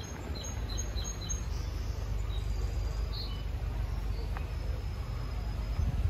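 A small bird chirping a quick run of short, high notes in the first second or so, with a few fainter notes a little later, over a steady low rumble on the microphone.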